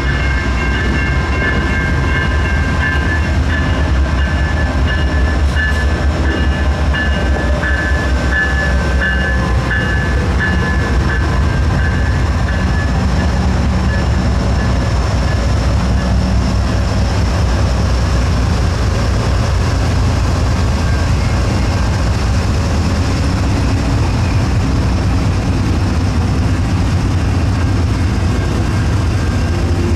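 Canadian National freight train rolling past with a loud, steady rumble of wheels on rail. Thin high squealing tones ride over it for the first fifteen seconds or so, then fade.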